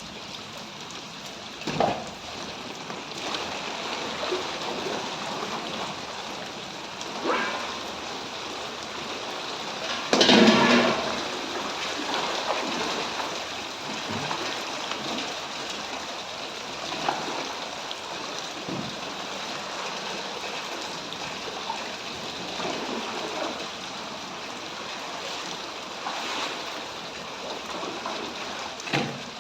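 Heavy rain pouring steadily, with water splashing and running. A few brief louder sounds stand out, the loudest about ten seconds in.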